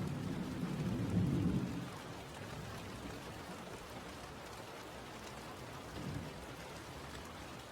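Steady rain with a low thunder rumble that dies away about two seconds in, leaving the rain alone.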